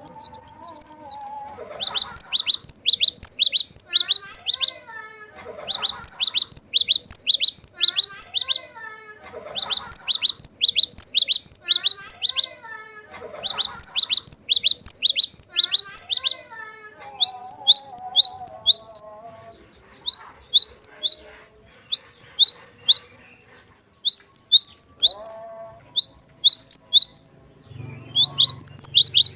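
Cinereous tit (glatik batu) singing in repeated bouts of rapid, sharp, high notes, each bout lasting a second or two with short pauses between. A fainter, lower twittering runs underneath.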